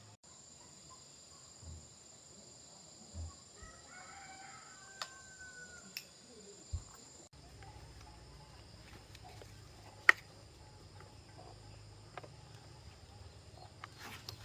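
A rooster crows once about four seconds in, over a steady high insect buzz that stops about halfway. Scattered sharp clicks and light knocks run throughout, the loudest about ten seconds in.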